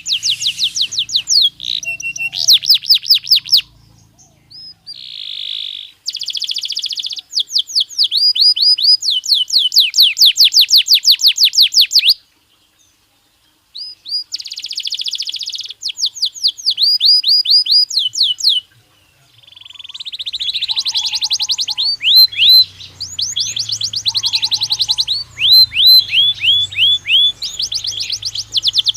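Belgian canary singing: long, rapid trills of repeated falling notes alternating with buzzy rolls, broken by a few short pauses, one of them near-silent about twelve seconds in.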